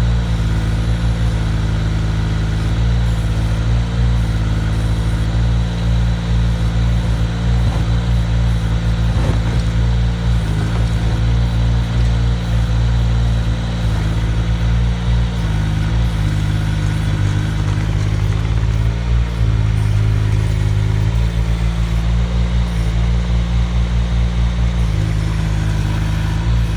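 Mini excavator engine running steadily, its note shifting several times as the machine works.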